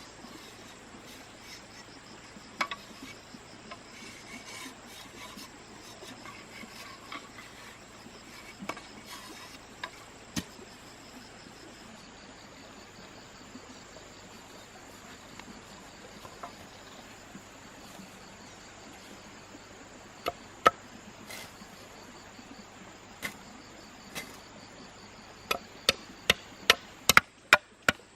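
Steady high hum of forest insects with scattered knocks and taps of wood; near the end a blade starts chopping in a quick, even run of strikes, two or three a second.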